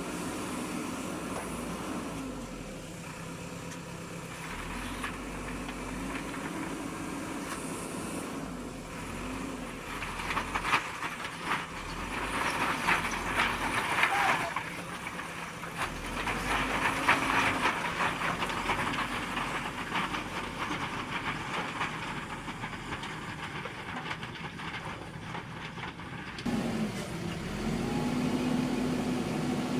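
JCB 3DX backhoe loader's diesel engine running, its note rising and falling as it works. From about ten to eighteen seconds in there is a stretch of clattering and scraping over the engine, and near the end the engine speeds up.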